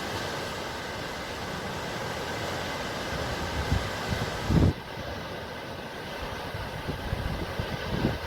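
Sea waves washing in a steady, even hiss, with irregular low rumbles. A louder low thump comes just past halfway, and the high hiss drops abruptly right after it.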